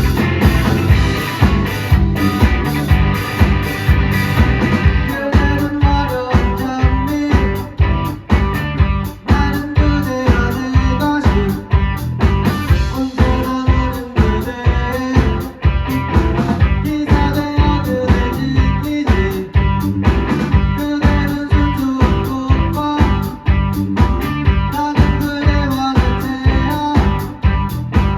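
Live band playing a song, with guitar over a steady drum beat and no clear singing.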